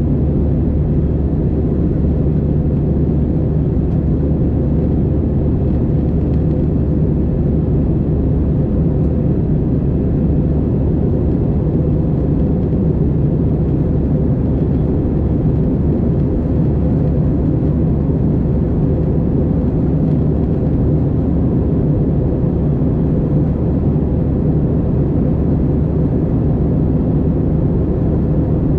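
Steady, unchanging cabin rumble of an Airbus A320-216, heard from a passenger seat: the CFM56 turbofan engines and the airflow make an even low drone with a faint steady hum.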